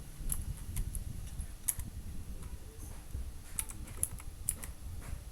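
Typing on a computer keyboard: irregular keystrokes at an uneven pace, over a low rumble.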